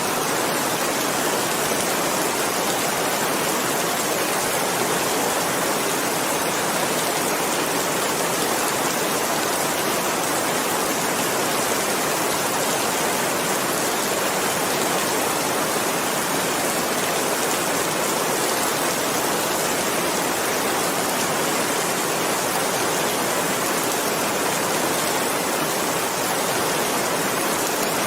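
Steady, even rain, a dense hiss of drops with no breaks.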